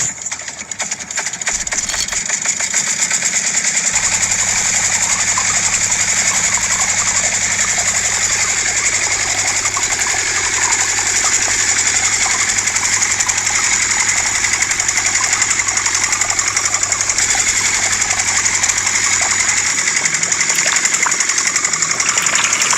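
A small electric motor running steadily with a fast, rough rattle.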